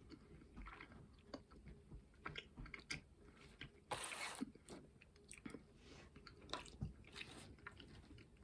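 Faint close-up chewing of soft, very chewy Sour Patch Extreme gummy candy: scattered small wet clicks and smacks of the mouth. A short hiss, like a breath, about four seconds in.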